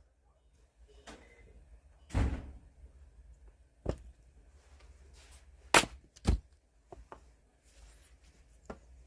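Sharp wooden knocks and thuds of firewood being worked: four loud hits, the last two about half a second apart, with a few lighter clacks between.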